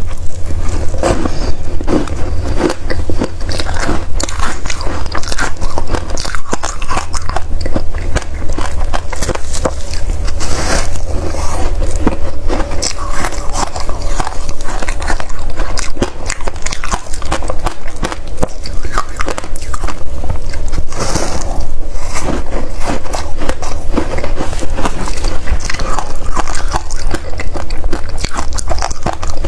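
Close-up crunching and chewing of freezer frost: a dense run of irregular crackling bites.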